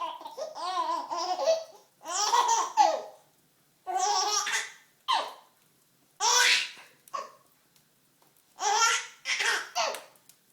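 Baby laughing in a string of high-pitched bursts with short pauses between them, longest at the start.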